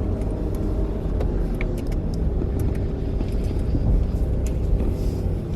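Car engine running at low speed while the car rolls slowly, a steady low rumble heard from inside the cabin.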